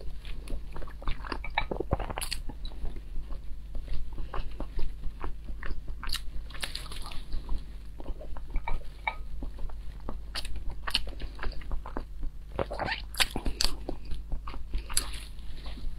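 Close-miked chewing and wet mouth smacks of a person eating halved hard-boiled eggs, with many short, irregular clicks.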